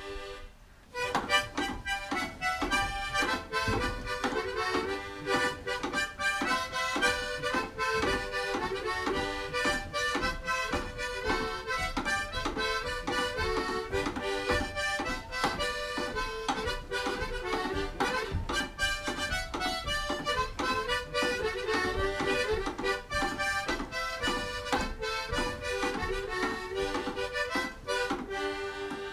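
Instrumental old-time tune played on a free-reed instrument such as an accordion, a quick run of notes starting about a second in and tailing off near the end.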